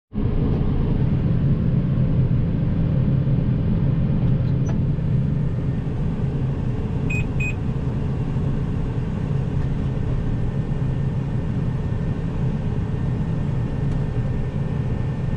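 Combine harvester engine running at a steady rumble, with two short electronic beeps about halfway through.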